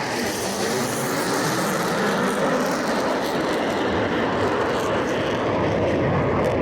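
Military jet aircraft flying a display pass, the jet engine noise loud and steady, building slightly toward the end.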